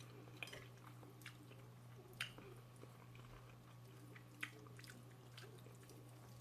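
Faint chewing of food, with a few short sharp mouth clicks, over a low steady hum.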